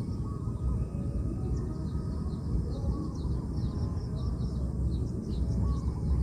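Wild birds calling outdoors: many short, high, falling chirps repeated throughout, with some fainter lower calls, over a steady low rumble.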